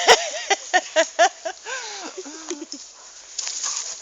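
A dog yipping while playing: about four short, high yips in quick succession, then a wavering whine lasting about a second. A couple of sharp knocks open it.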